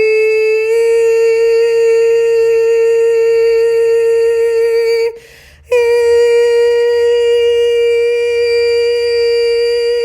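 A voice toning the crown chakra's high 'E' sound, held on one steady pitch. It steps up slightly just under a second in, breaks for a short breath about five seconds in, then resumes on the same note.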